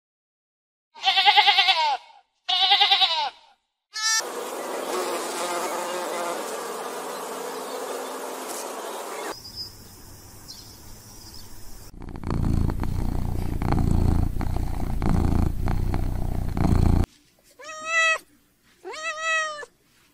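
Sheep bleating twice, then a steady insect buzzing for several seconds. After that a cat purring loudly, and near the end two short meows.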